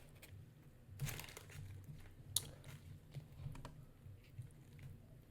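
Faint close-miked eating sounds: chewing a bite of crispy fried hot chicken, with scattered crunches and crinkles, the sharpest about a second in and again near two and a half seconds. A low steady hum runs underneath.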